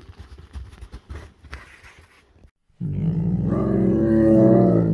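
Faint crackling and snapping, then about three seconds in a tiger starts a long, loud roar that holds to the end.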